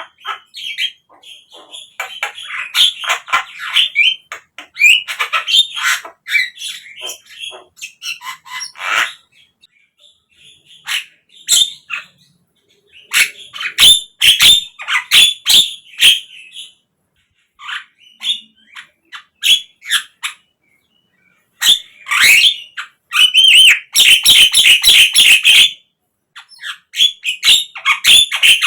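Javan myna singing: loud bursts of rapid, harsh chattering notes mixed with whistles, broken by short pauses, with the densest, fastest runs in the last third.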